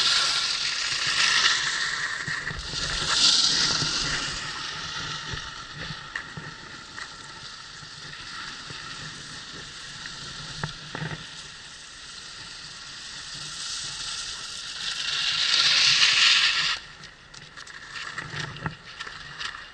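Skis skidding on snow through a series of turns, a hiss that swells loudly with each turn, the loudest near the end, and cuts off suddenly about 17 seconds in as the skier stops; a few light clicks follow.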